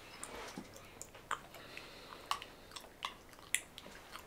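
A person chewing breakfast food close to the microphone, with a handful of short, sharp mouth clicks at irregular moments.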